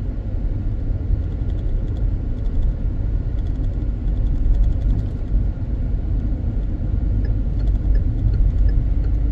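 Steady low rumble of a car driving, heard from inside the cabin: engine and road noise. Faint, evenly spaced ticks join in over the last couple of seconds.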